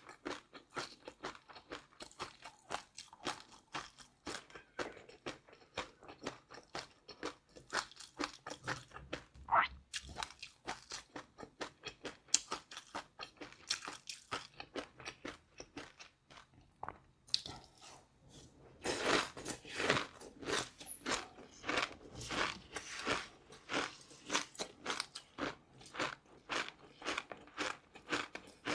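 Close-miked chewing of a crisp, crunchy food: a fast, continuous run of crunches, several a second, growing louder about two-thirds of the way in.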